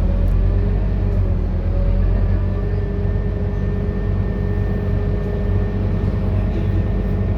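Scania K230UB bus's diesel engine running steadily under way, a strong low hum with a thin steady whine above it from about two seconds in.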